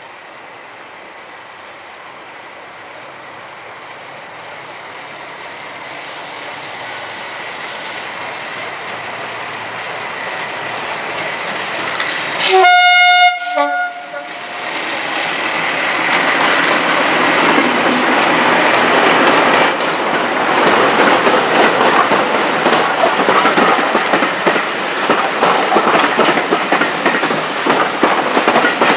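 Class 37 diesel locomotive D6732, with its English Electric V12 engine, approaching and growing steadily louder. Its horn sounds once, for about a second and a half, near the middle. The locomotive and its train then pass close by, engine running, wheels clicking rhythmically over the rail joints.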